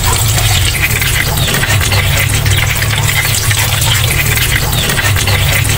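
Wrapped rolls frying in hot oil in a pan: a steady, loud sizzle with a low hum underneath.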